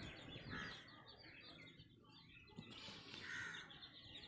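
Faint bird calls in the background, a run of repeated short chirps, otherwise near silence.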